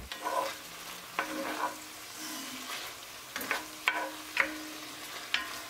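Diced chicken breast frying in olive oil with a steady sizzle, stirred with a wooden spoon that scrapes across the bottom of the pan about seven times.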